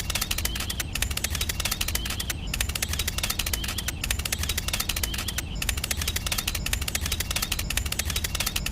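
Small motor-driven mechanism of a DIY mini tractor running, giving a fast, steady rattle of clicks with a faint wavering whine.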